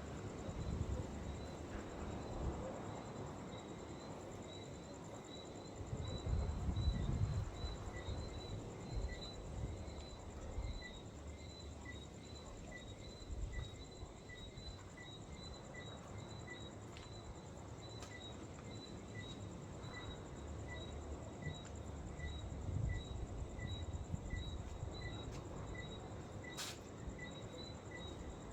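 Wind buffeting the microphone in uneven gusts, stronger about six seconds in, while insects keep up a high, regular chirping about twice a second over a steady high buzz. A single sharp click sounds near the end.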